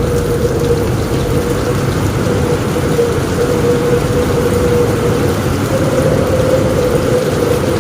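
Heavy rain and strong wind on a roof, a steady dense rumble with a continuous, slightly wavering hum running through it.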